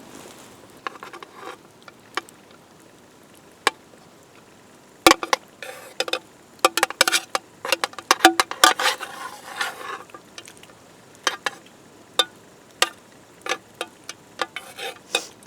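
A metal spoon clinking and scraping against metal cookware as freshly boiled pasta is spooned and mixed into stewed meat (tushonka). Quiet at first, then a busy run of sharp clinks and short scrapes from about a third of the way in.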